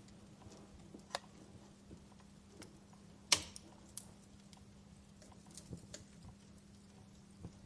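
Wood fire crackling: scattered small pops and snaps, with one sharp, louder crack about three seconds in, over a faint steady low hum.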